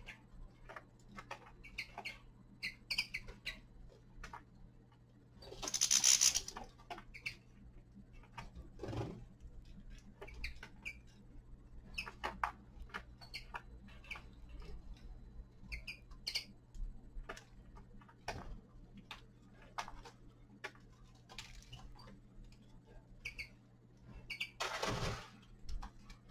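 Caged finches pecking and cracking seeds, many small irregular clicks, with short soft chirps between them. Twice there is a louder rustle about a second long, and a steady low hum sits underneath.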